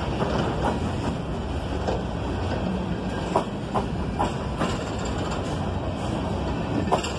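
Coal train cars rolling past on the track: a steady rumble of wheels on rail with irregular sharp clacks as the wheels cross rail joints.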